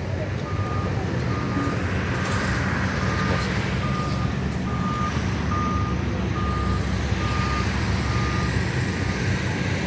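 Reversing alarm of a heavy construction vehicle beeping steadily, about three beeps every two seconds, over the vehicle's running engine. The beeping stops near the end.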